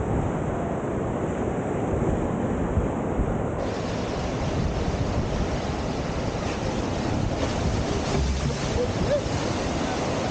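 Steady rush of whitewater from a standing river surf wave, with wind buffeting the microphone.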